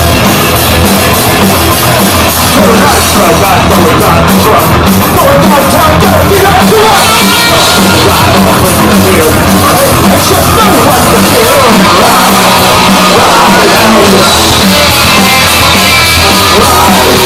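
Live punk rock band playing loudly: distorted electric guitars, bass and drums, with shouted vocals, heavily overdriven on the recording.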